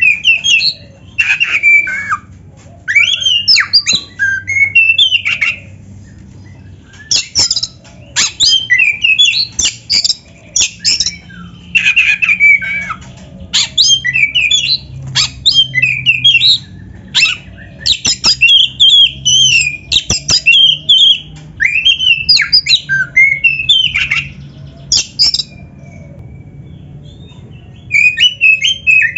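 Oriental magpie-robin (black-breasted kacer) singing loudly: fast phrases of sweeping whistles and chattering notes, each lasting a second or two with short pauses between, and a longer pause near the end.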